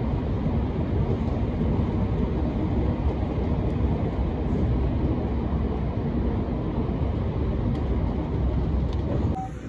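Electric commuter train running, heard from inside the carriage: a steady low rumble of wheels on rail, which drops off abruptly near the end.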